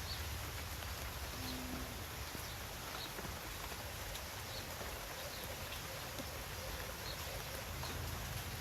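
Steady outdoor background hiss with a low rumble, and a faint short high chirp repeating about every second and a half.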